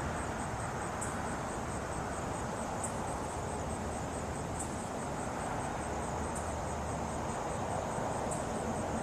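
Night insects chirping steadily in a fast, high trill, with a sharper call repeating about every two seconds, over a steady background rush.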